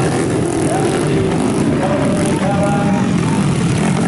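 Modified underbone motorcycle engine running, a steady loud drone with small rises and falls in pitch.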